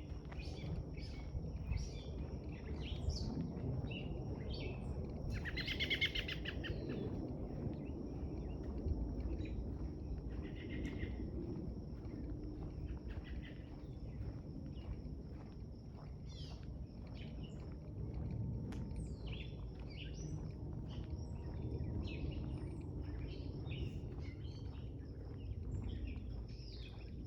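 Several wild birds chirping and calling, with one louder, longer call about six seconds in, over a low steady outdoor rumble and a thin, steady high tone.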